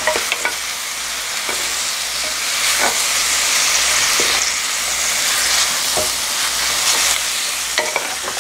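Raw chicken pieces sizzling in a hot nonstick pan as they are stir-fried with two wooden spoons: a steady frying hiss with scattered knocks of the spoons against the pan.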